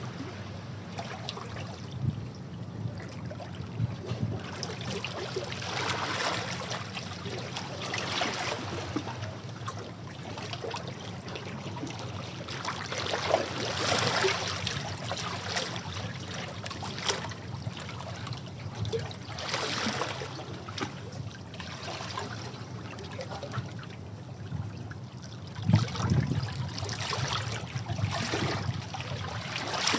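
Sea waves washing against rocks, the water surging and draining back every few seconds, with splashes and trickles between.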